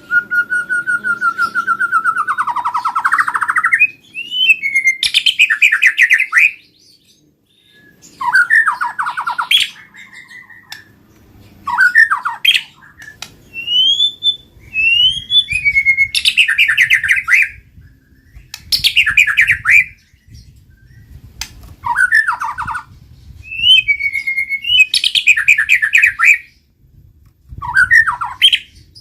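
White-rumped shama singing in loud, separate phrases every two to three seconds. Each phrase mixes rising and falling whistles with rapid trills.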